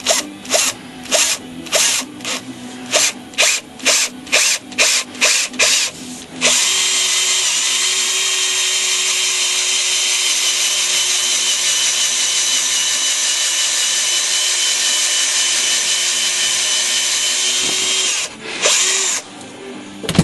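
Power drill run in about a dozen short trigger bursts, then held on steadily for about eleven seconds, then two more short bursts near the end.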